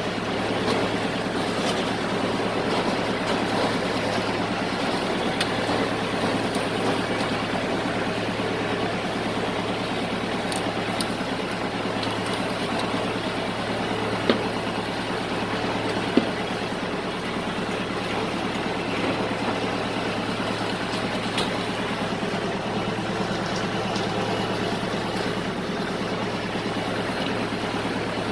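Farm tractor engine running steadily under load while it drags a large chicken tractor, with the scraping of the sheet-metal bottom over the ground. About halfway through come two sharp knocks a couple of seconds apart.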